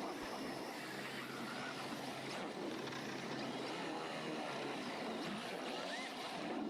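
Electric RC drift cars running: a steady hiss with a few faint short whines.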